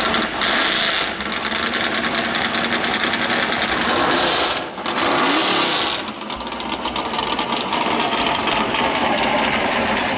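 Ford 302 V8 running hard under full throttle on a drag strip pass. The sound briefly drops off about five seconds in, then comes back at full strength.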